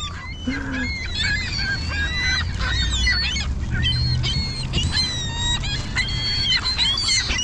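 A flock of gulls calling over one another: many short, overlapping squawks and cries as they compete for food being thrown to them. A low steady rumble sits underneath.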